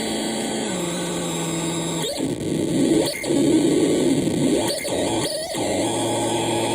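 Experimental noise machine putting out loud harsh noise. A steady low tone drops in pitch under a second in, then gives way to a rough texture cut by several sharp sweeping bursts. A lower steady drone sets in near the end.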